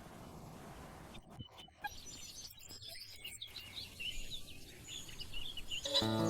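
Faint, scattered chirps of small birds over a quiet outdoor background, with music coming in near the end.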